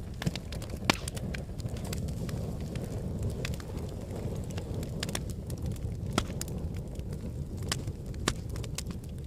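Wood fire burning in a fireplace: a steady low rumble of flames with irregular sharp crackles and pops. The loudest pop comes about a second in, and another strong one just after eight seconds.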